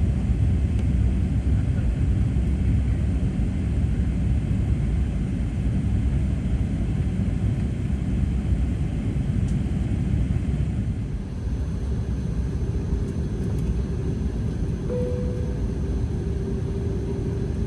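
Airbus A380 cabin noise while taxiing: a steady low rumble of the idling engines and the rolling aircraft. A steady mid-pitched tone joins in near the end.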